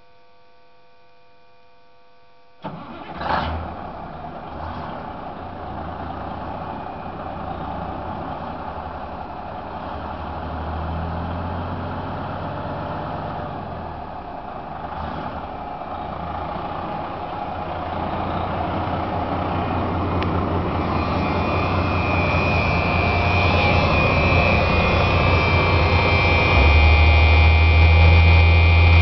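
M818 5-ton 6x6 military tractor truck's Cummins six-cylinder diesel engine starting about two and a half seconds in, with a sharp burst as it fires. It then runs continuously and grows steadily louder, and a high whine builds over the last several seconds.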